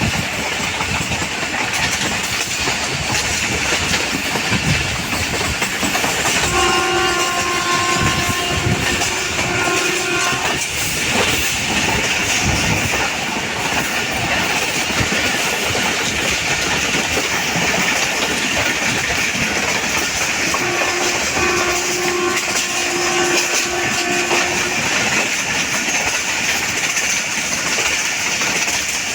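Passenger train running along the track with a steady rumble and wheel clatter. The locomotive horn sounds twice, each a held blast of about four seconds: once about a quarter of the way in and again about two-thirds of the way through.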